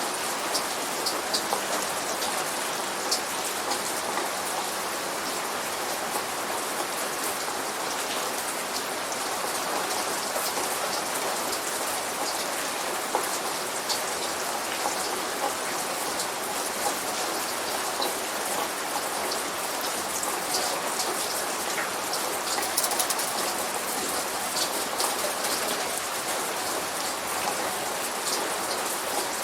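Steady light rain falling on a hard surface: an even hiss dotted with many small, close drop ticks, with no thunder.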